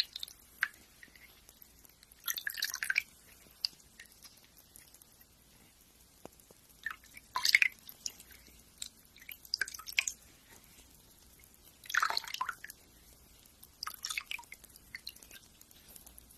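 Fingernails being filed by hand, in short separate strokes about every two seconds.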